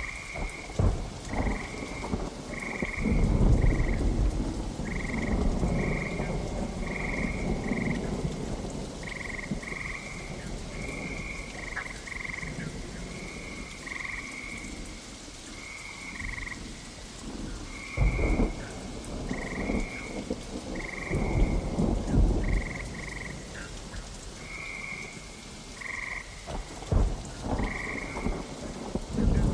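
Steady rain falling during a thunderstorm, with low rolls of thunder swelling up about four times. Frogs call throughout in short, high croaks, roughly one a second.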